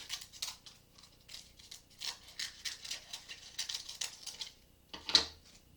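Scissors cutting around the edges of a cardboard cutout covered in glued-on leaves: an uneven run of short snips, with one louder click about five seconds in.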